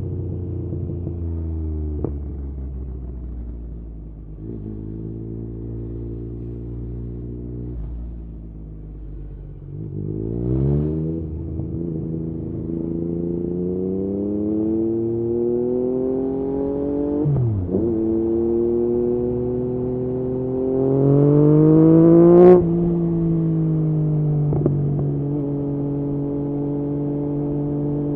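Yamaha MT-09's inline three-cylinder engine through an Akrapovič exhaust, easing off at first, then accelerating hard in several rising pulls, each broken by a quick drop in pitch as it shifts gear. At the highest revs, about 22 seconds in, there is a sharp crack, after which the engine holds a steady pitch and backs off near the end.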